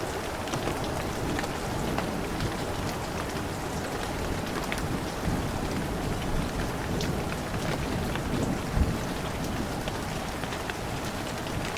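Heavy rain falling steadily, with single drops ticking close by. A brief low thump comes about nine seconds in.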